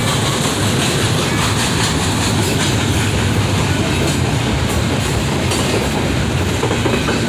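BNSF freight train rolling past, its cars' wheels running steadily over the rails.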